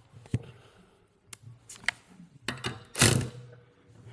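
Scattered metal clicks and knocks of hand tools and valve-train parts being handled on an LS cylinder head, with a louder, longer clatter about three seconds in.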